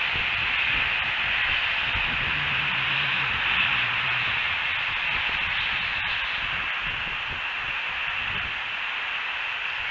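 Steady outdoor hiss on the nest camera's microphone, with uneven low rumbling from wind on the mic.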